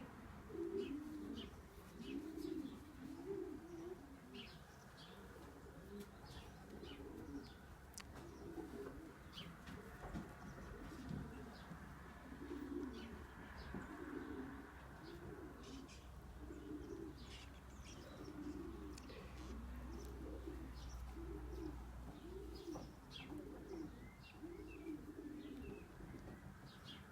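Pigeons cooing, a low wavering coo repeated about once a second, with scattered short high chirps from small birds.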